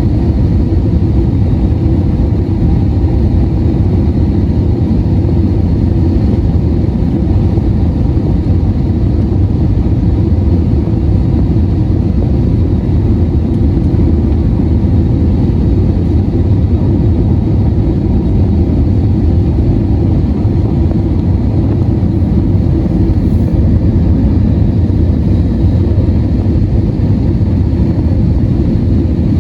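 Steady low rumble of an Airbus A321-231 airliner heard from inside the cabin: its IAE V2500 engines and airflow running evenly, with a faint steady whine above, unchanged throughout.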